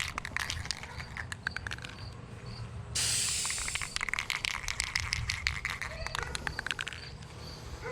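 Aerosol spray cans of clear lacquer being shaken, the mixing ball inside rattling in fast rapid clicks, louder from about three seconds in.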